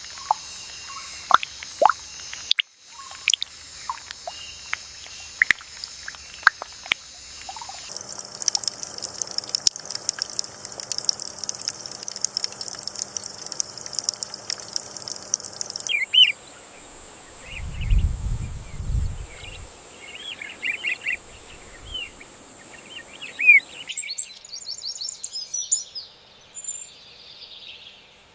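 Nature ambience of insects and birds: steady high-pitched insect buzzing with scattered short bird chirps and calls. The background switches abruptly every few seconds, and a brief low rumble comes about two-thirds of the way through.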